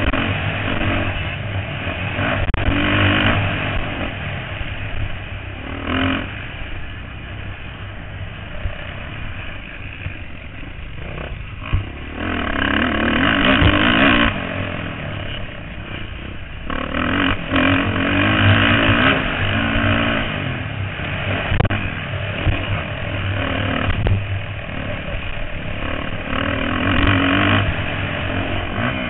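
Motocross bikes racing past, their engines revving hard and dropping off as riders accelerate and shift. Several bikes swell up and fade away in turn, loudest about halfway through and again a few seconds later.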